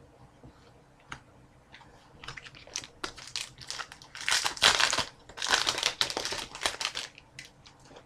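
Foil wrapper of a trading-card pack crinkling as it is handled and opened: a run of crackly bursts starting about two seconds in, loudest in the middle.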